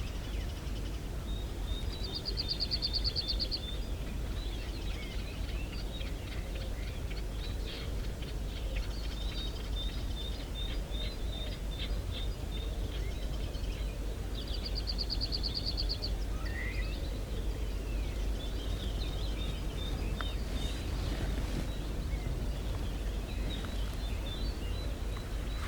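Small songbirds calling, with two short, very fast high trills about twelve seconds apart and scattered chirps, over a steady low background rumble.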